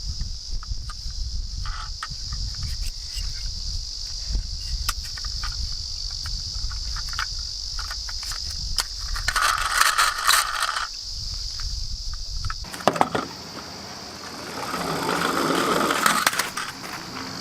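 Toy minicars, miniature garbage trucks and ambulances, rolling down a slope with many small clicks and two louder clattering runs. A steady high insect drone sounds behind them, and a low rumble cuts off suddenly about two-thirds of the way in.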